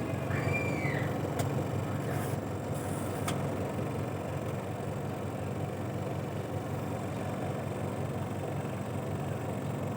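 Motor of a Sanyo/Aqua SW-870XT twin-tub washing machine running with a steady hum, working again after repair.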